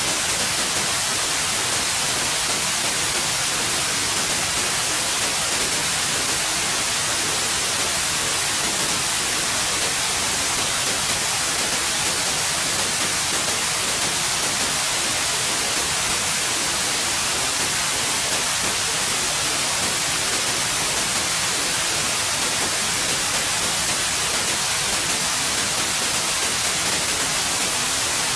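Steady white noise: an even, unchanging hiss across the whole range of pitch, brightest in the highs.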